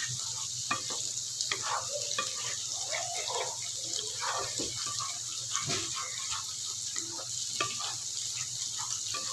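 Thick cashew and melon-seed paste sizzling in a non-stick pan while a wooden spatula stirs and scrapes it in short, irregular strokes, over a steady hiss and a low hum.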